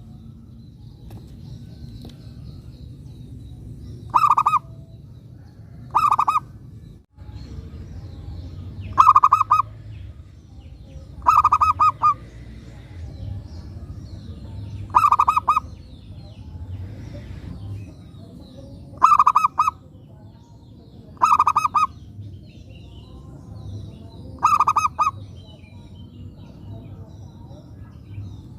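Zebra dove (perkutut) cooing: a short, rapid, stuttering coo phrase repeated eight times, every two to four seconds. Faint chirps of other small birds and a steady low hum lie underneath.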